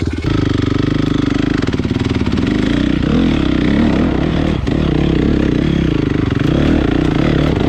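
Honda CRF450 dirt bike's single-cylinder four-stroke engine running loud through an aftermarket HGS exhaust, its pitch wavering up and down as the revs change.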